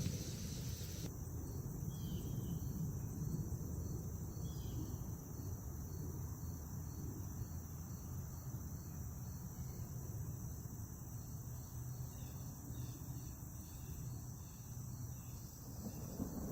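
Steady chorus of crickets chirping in high, continuous bands over a low rumbling background.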